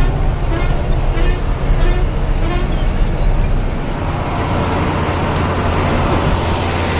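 Truck's diesel engine running steadily on the move, with regular knocks about every half second in the first few seconds and a few brief high squeaks. About four seconds in, the low engine note changes to a steadier hum.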